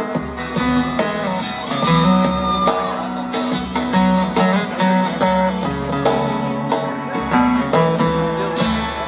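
Live country band playing a song intro: guitars with a banjo, bass and drums, at a steady beat.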